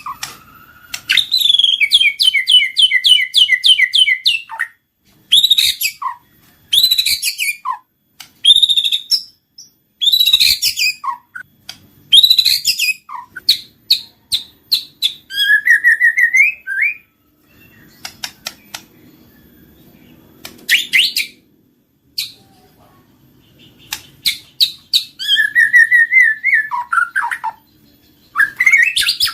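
White-rumped shama (murai batu) singing: loud, varied whistled phrases with fast trills and quick runs of repeated notes, broken by short pauses.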